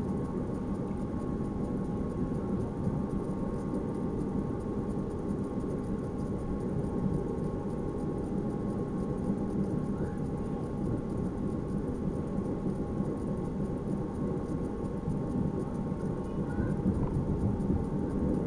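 NS Sprinter electric train running steadily, its rolling rumble and a constant motor hum heard inside the driver's cab.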